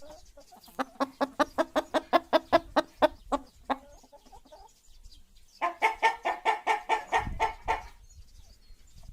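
Chicken clucking: a fast run of short clucks, about six a second, for about three seconds. After a short pause comes a second, denser burst of cackling.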